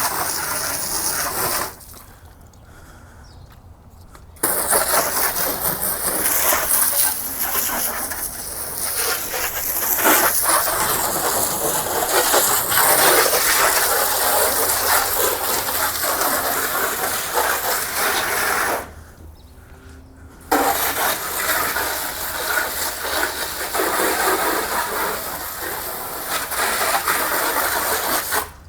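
Loud hiss of water spraying over a car during a wash, cutting off briefly twice.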